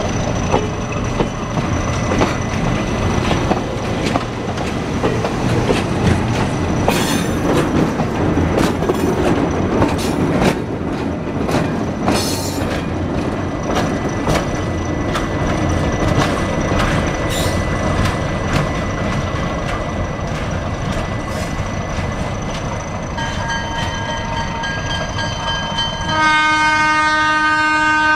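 Passenger train rolling past on jointed track, its coaches' wheels clicking over rail joints with occasional short squeals, followed by a diesel locomotive. Late on a faint horn note begins, then the locomotive's air horn sounds a loud, sustained chord through the end.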